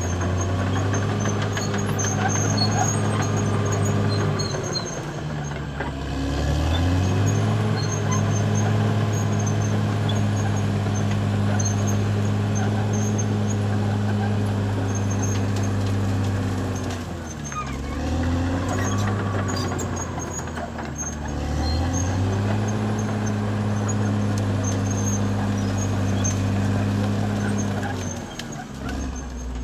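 Caterpillar D6R XL bulldozer's diesel engine running steadily under load. Its pitch sags and climbs back several times as the load or throttle changes.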